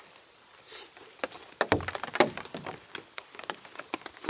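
A run of small clicks and knocks as cutlery and a plate are handled to start eating, over a soft patter of rain.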